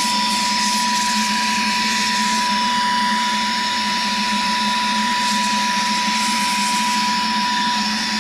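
Saker 3-in-1 cordless handheld vacuum-blower's brushless motor running steadily, a high steady whine over rushing air.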